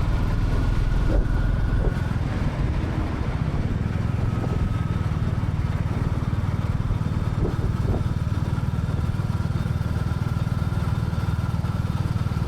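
Royal Enfield Classic 350's single-cylinder engine running steadily while the motorcycle is ridden, with road and wind noise. Its deep low rumble eases slightly about two seconds in.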